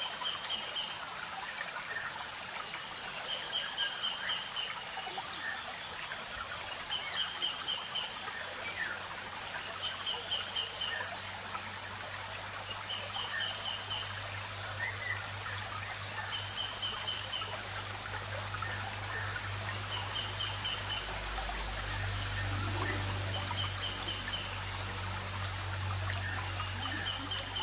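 Small forest stream trickling and babbling steadily. A short, high, rapid trill repeats about every two seconds over the water, and a low rumble comes in partway through.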